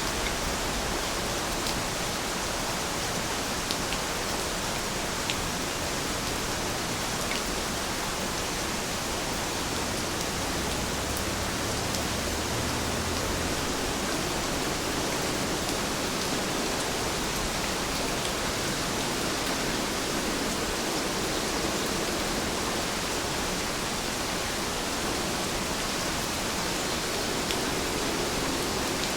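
Steady, dense rain falling, a continuous even hiss with a few faint drop ticks.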